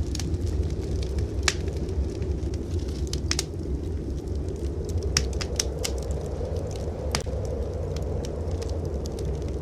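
Wood fire crackling in a fireplace, with irregular sharp pops and a quick cluster of them about halfway through, over a steady low rumble.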